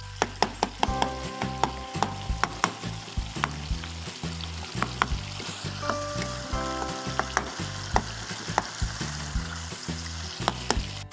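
Tomato masala frying in oil in a wok, sizzling steadily while a steel ladle stirs and mashes it, with many sharp clinks of the ladle against the pan.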